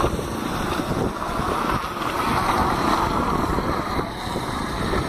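Blizzard wind blowing hard and buffeting the microphone with a steady rushing noise and gusty low rumble.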